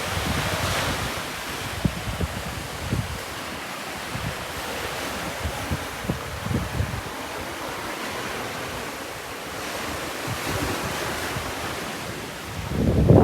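Ocean surf washing and breaking on the shore, swelling and ebbing, with wind buffeting the microphone in low thumps. A louder surge begins near the end.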